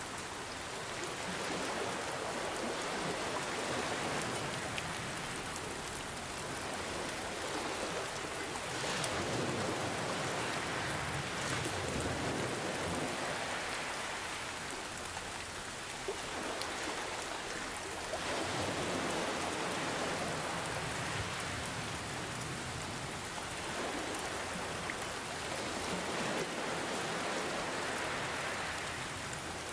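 Steady rain with scattered drops ticking, mixed with ocean waves that swell and ebb every several seconds.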